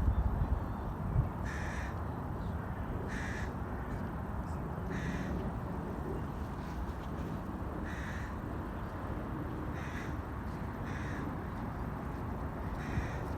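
A crow cawing, about seven short harsh caws spaced a second or two apart, over a steady background noise.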